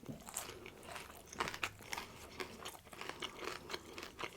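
A person chewing and biting crunchy food, a run of irregular crunches.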